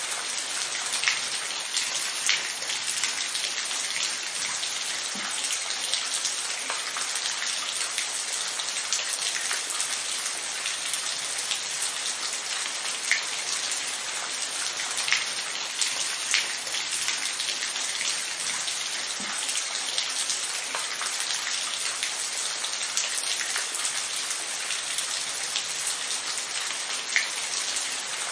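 Steady rain falling, a dense even hiss with louder single drops striking a surface every second or two.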